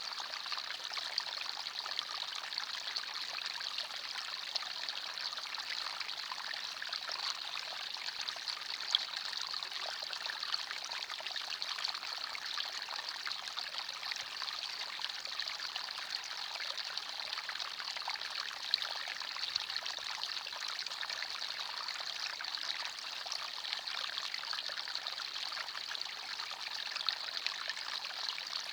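A small forest stream running steadily, water trickling and splashing over stones.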